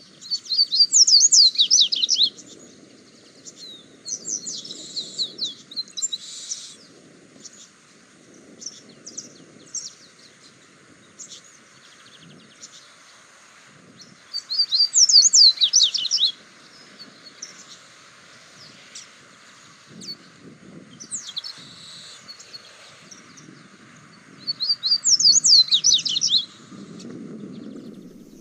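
Double-collared seedeater (coleiro) singing: three loud, fast, high twittering song phrases of about two seconds each, with softer chirps between them.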